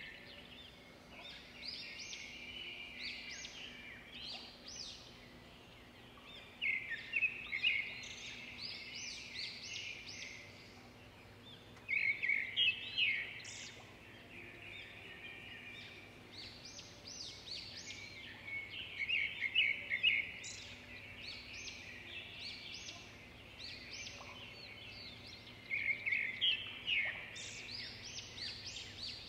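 Bird chirping and trilling, with louder runs of rapid notes every six or seven seconds and softer chirps between, over a faint steady hum.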